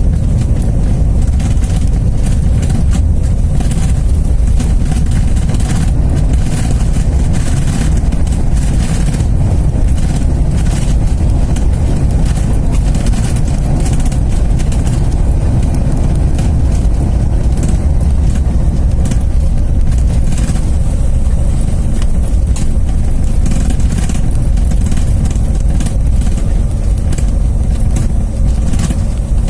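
Cabin noise of a Bombardier CRJ1000 regional jet during landing: a loud, steady low rumble of engines, airflow and airframe.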